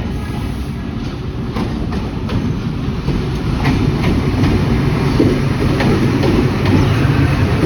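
Passenger train hauled by a ZCU-20 diesel-electric locomotive rolling in along the track: a low rumble that grows louder, with irregular clicks of wheels over the rail joints.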